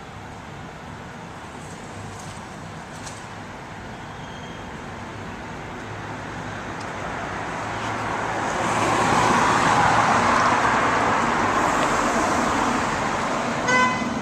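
Street traffic: a vehicle drives past, growing louder to a peak a little past the middle and then fading away. A short, sharp beep sounds near the end.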